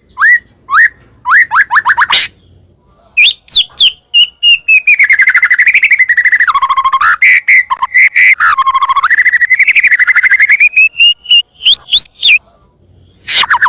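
White-rumped shama (murai batu) singing loudly: runs of quick downward-swooping whistles, then a long fast trill that dips and rises in pitch for several seconds, then more swooping whistles after a short pause.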